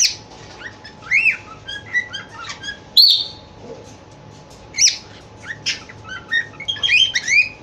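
Cockatiel chirping and whistling in a string of short calls that glide up and down in pitch, with louder calls about three and five seconds in and a quick flurry near the end.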